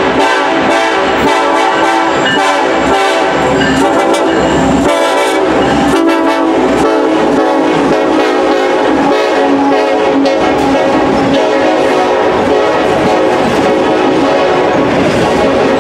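Diesel freight train passing close by, its locomotive air horn sounding long and steady over the rumble and wheel clatter of the passing cars.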